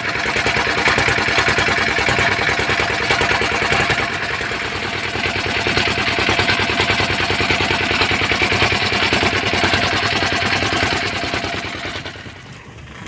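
Small boat engine running close by at a steady speed, with a rapid, even firing beat and a clattering edge, dying away near the end.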